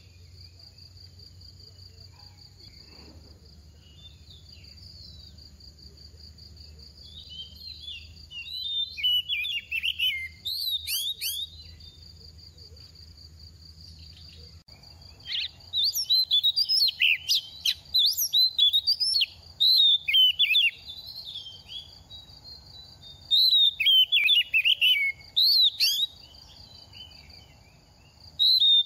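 An Oriental magpie-robin, a moulting young bird, sings in three bursts of rapid, varied whistled phrases, with pauses between them. A steady high-pitched tone runs underneath.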